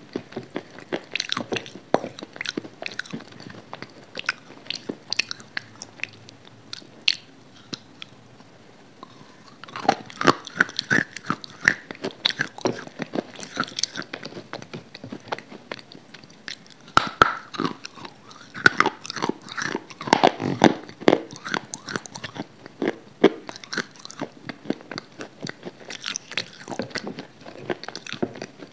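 Close-miked chewing and crunching of food in the mouth, with crisp crackling bites and wet mouth sounds from a lapel microphone held at the lips; there is a brief lull about eight seconds in, then the crunching grows denser again.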